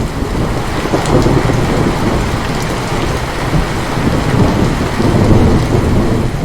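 Heavy rain falling steadily, with a long rolling thunder rumble through it that swells and eases several times.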